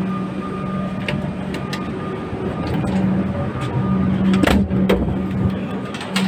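Electric suburban train's steady hum, with a few sharp clicks and a louder clatter about four and a half seconds in.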